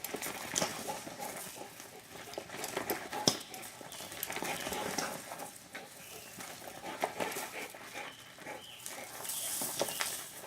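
A dog chasing a toy dragged on a string, with the dog's own sounds and scattered light scuffs and clicks over a steady background hiss.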